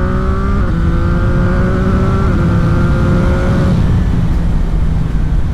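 CFMOTO 675 SR-R's three-cylinder engine pulling under acceleration, its note climbing with two brief quick-shifted upshifts. The engine note fades out about four seconds in as the throttle closes, leaving heavy wind rush on the rider's microphone.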